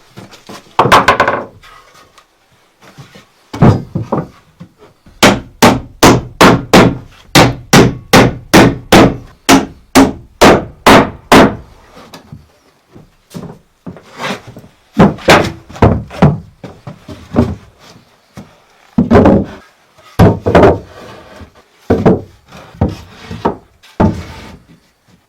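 Repeated blows of a hand tool on wood. Near the middle comes a fast, even run of about fifteen sharp strikes at roughly two and a half a second. Slower, irregular knocks come before and after it.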